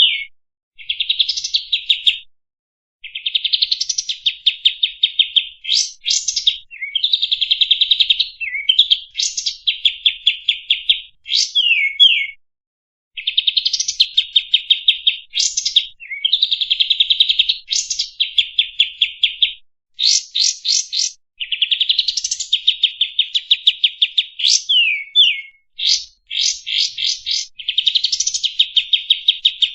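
Kapas tembak songbird singing its rapid 'tembak' song, played as a masteran tutor recording: a run of fast chattering trill phrases, each a second or two long, broken by short gaps and quick sharp sweeping notes.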